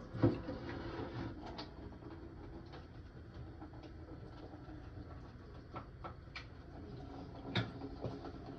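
Scattered light knocks and clicks from hands and tools working on a toilet tank while its fill valve is replaced, over a low steady background.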